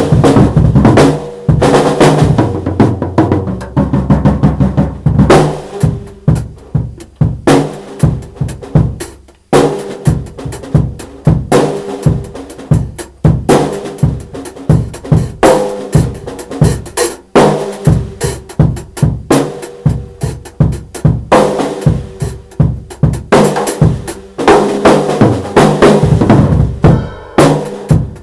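Drumming: quick, uneven runs of sharp hits with ringing tones between them, broken by a few brief pauses.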